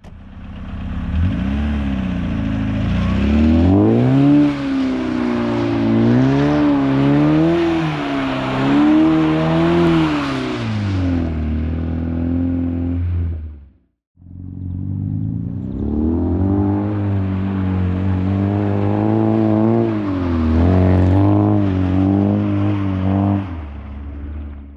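Car engine revving up and down again and again as the car drifts on snow, in two long runs with a brief break near the middle.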